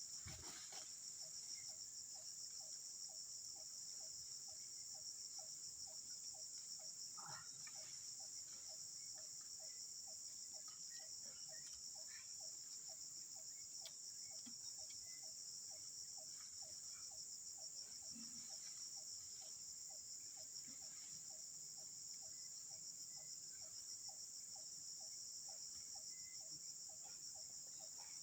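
Steady high-pitched insect chorus, crickets or cicadas, droning without a break, with a softer chirp repeating about two or three times a second beneath it.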